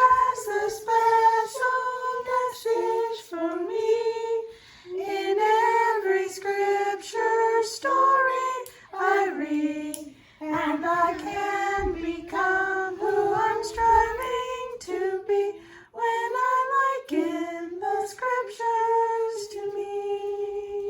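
A woman and children singing a Primary song together, unaccompanied. The phrases are separated by short breaths, and the song ends on one long held note.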